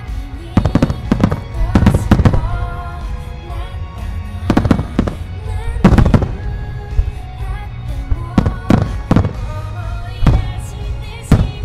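Aerial fireworks shells bursting in a series of a dozen or so sharp booms with crackle and echo, over music playing with the display.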